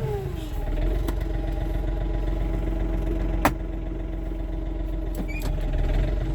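John Deere 3720 compact tractor's diesel engine running. Its pitch drops in the first half-second and then holds steady, with one sharp click about three and a half seconds in.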